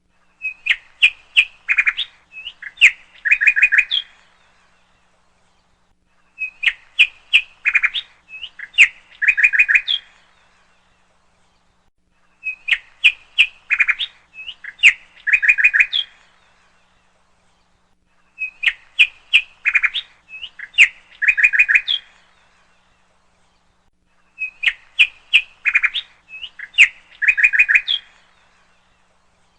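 Bird song: the same phrase of quick chirps ending in a short trill, repeated five times about six seconds apart with silence between.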